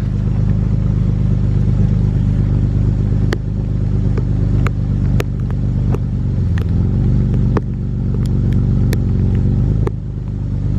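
Ford Explorer's engine idling close to the tailpipe, a steady low running note whose pitch dips briefly about six and a half seconds in. Scattered sharp ticks of heavy rain striking the vehicle and ground run over it.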